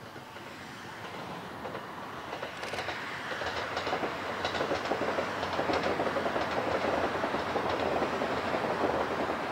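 Tobu 253 series 1000-subseries electric multiple unit passing on the track, its running noise growing louder as it nears. From about three seconds in, the wheels click over the rail joints.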